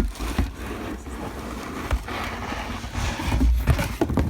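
Cardboard box and packaging inserts scraping and rubbing as they are worked loose by hand, with scattered knocks and a low rumble from handling close to the microphone.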